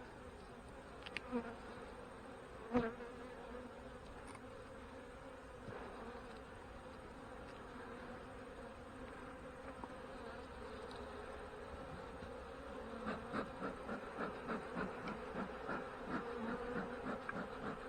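Honey bees buzzing steadily around an open hive, with two sharp knocks in the first few seconds. The buzzing grows louder and pulses rapidly in the last few seconds.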